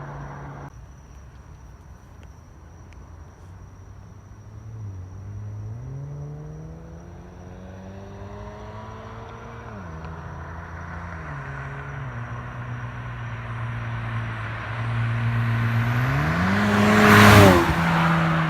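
2016 Ford Mustang EcoBoost's turbocharged 2.3-litre four-cylinder through an MBRP Race cat-back exhaust, accelerating and shifting up through the gears, the engine note dropping at each shift. It grows louder as the car approaches and passes close by near the end with a rush of noise, its pitch falling as it goes past.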